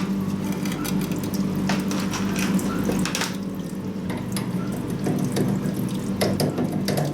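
Metal lathe running steadily with a steel drive shaft turning in it, under irregular scratchy strokes and clicks as the shaft is sanded.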